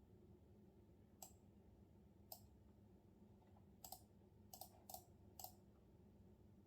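A few scattered, faint keystrokes on a computer keyboard: about eight short clicks at irregular intervals, some in quick pairs, over a low steady room hum.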